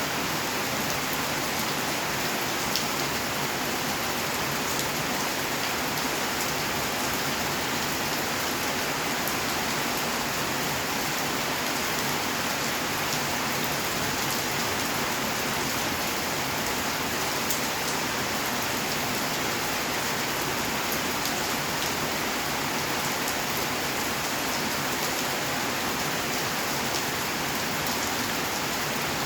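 Steady rainfall, drops pattering on surfaces with fine ticks of individual drops over an even hiss.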